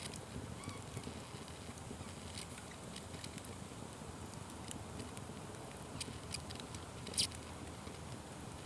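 Wood fire crackling, with scattered sharp pops and snaps over a low, steady rush of burning; the loudest pop comes late on.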